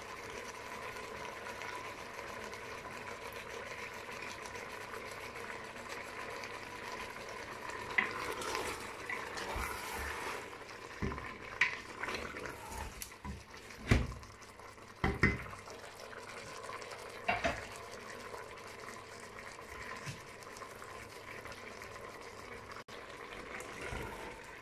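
Chicken, onion and tomato sizzling in an open pressure cooker pot as they are stirred, with a few sharp knocks and scrapes against the pot in the middle of the stretch.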